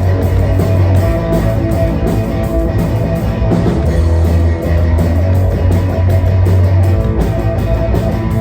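Live rock band playing the instrumental intro of a song: electric guitar, bass and drums, with cymbals keeping a steady beat.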